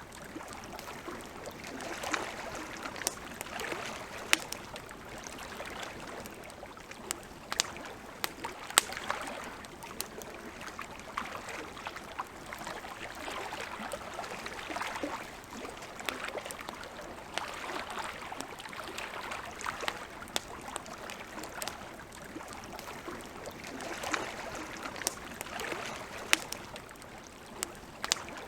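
Campfire crackling, with irregular sharp pops and snaps of burning wood, over a soft wash of lake water that swells and fades every couple of seconds.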